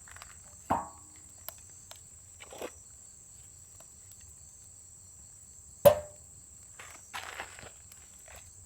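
Knocks of firewood against a metal fire pit: two sharp hits with a brief metallic ring, about a second in and a louder one near six seconds, with softer rustling and crunching between. A steady high insect drone, like crickets, runs underneath.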